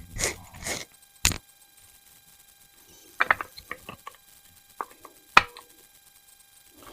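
Sharp metallic knocks and clicks of AR-15 parts and tools being handled on a workbench, a few hard knocks at first and then a run of lighter clicks, as the tight upper assembly is set back into the vise block.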